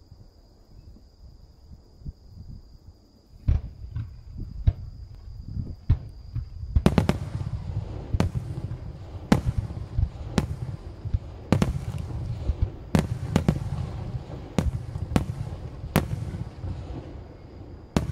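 Aerial firework shells bursting in a display. A few scattered sharp booms come first, then from about seven seconds in a rapid barrage of loud bursts, roughly one a second, over a continuous low rumble and crackle.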